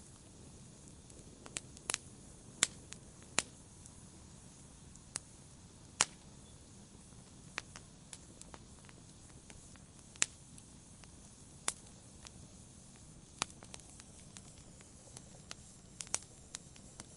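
Wood fire crackling in a fireplace: sharp, irregular pops every second or so over a soft, steady hiss.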